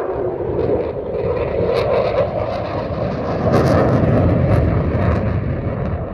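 Eurofighter Typhoon fighter jet flying a display, its engine noise building to a peak past the middle and easing off near the end.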